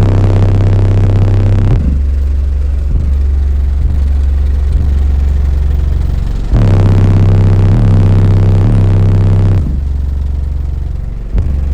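Loud bass-heavy music played through a car audio system's subwoofers, deep sustained bass notes that switch pitch every few seconds.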